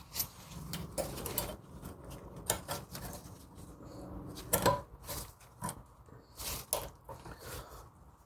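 New brake pad shims and small brake hardware being handled and fitted: irregular light metallic clicks and taps.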